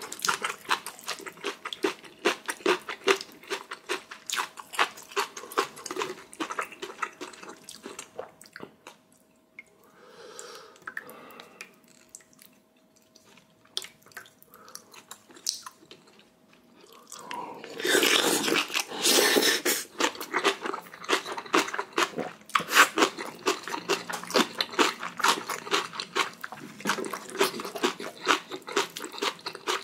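Close-miked eating sounds: rapid wet chewing and crunching of spicy ramen, rice and kimchi. They go quiet for several seconds near the middle, then pick up with a louder noisy stretch and continue.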